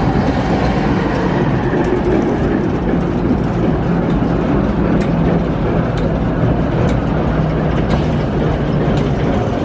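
Heritage passenger train running along the track: a steady loud rumble with a faint low hum, and sharp wheel clicks over rail joints about once a second.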